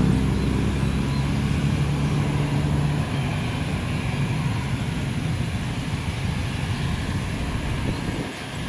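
Jet airliner's engines at take-off power, a loud steady rumble with low tones that sink slightly in pitch over the first few seconds, then slowly fading.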